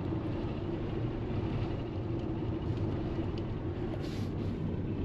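A vehicle engine running steadily: a low rumble with a constant hum.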